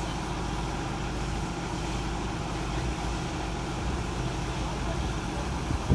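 Case IH Quadtrac 620 tractor's diesel engine running steadily, with a short sharp knock near the end.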